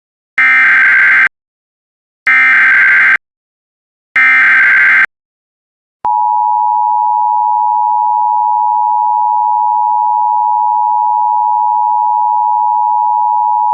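Emergency Alert System header: three short bursts of warbling SAME data tones, each about a second long, then from about six seconds in the steady two-tone attention signal that announces an alert.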